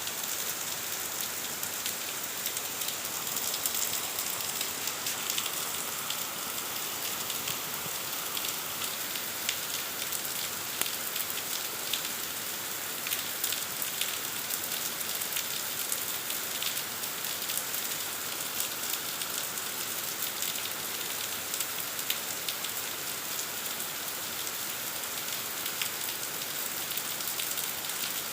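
Heavy rain falling steadily, a dense hiss with many fine drop patters spread through it.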